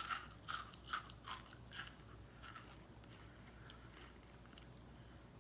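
A person chewing crunchy bacon-flavoured nuts. There is a run of sharp crunches about twice a second at first, which dies down to softer chewing after about two and a half seconds.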